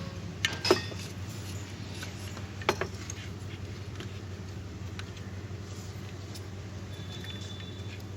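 Maruti Alto K10's three-cylinder engine idling steadily, with a few sharp metallic clinks, like tools or keys, about half a second in and again near three seconds.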